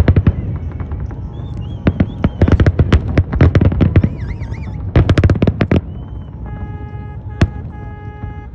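Fireworks going off in rapid crackling volleys, dozens of sharp cracks in clusters, with a warbling whistle among them and one single sharp bang near the end. A steady pitched tone, heard twice with a short break, sounds over the last two seconds.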